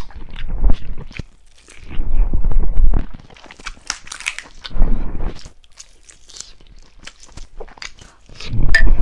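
Close-miked sounds of a person biting into and chewing chicken, in four loud bursts of about a second each, with sharp crackling clicks in between.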